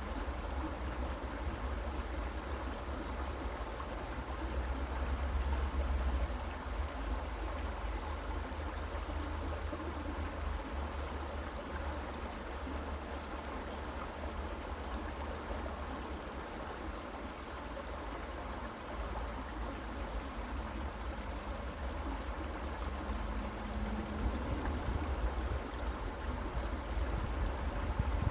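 Creek water running and gurgling steadily, with a low rumble underneath.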